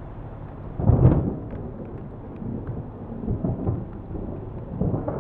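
A loud crack of thunder about a second in, followed by irregular rumbling thunder over the steady hiss of heavy rain.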